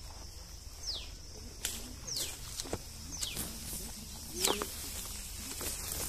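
A bird calls again and again with a short, sharply falling whistle, about once a second, over a steady high insect buzz. Footsteps crunch and twigs crackle on a dry grassy path, loudest about four and a half seconds in.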